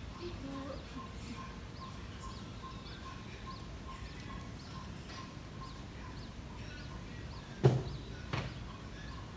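Outdoor ambience with birds calling: a short note repeated evenly about two or three times a second, and scattered high chirps over a steady hiss. Two sharp knocks come near the end, the second weaker.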